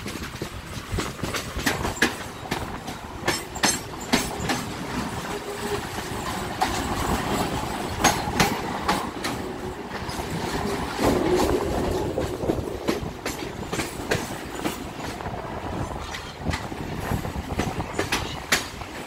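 Mumbai suburban local train running, heard from its open doorway: a steady rumble with the wheels clicking irregularly over rail joints, and a faint whine in the middle stretch.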